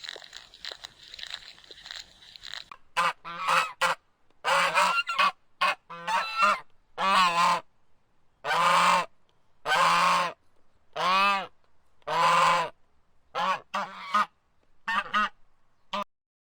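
A bird giving a series of about a dozen loud honking calls, each under a second long, after a few seconds of faint crackling.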